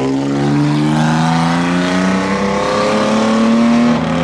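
A modified car's engine accelerating away under load, its pitch climbing steadily for about four seconds before easing off near the end.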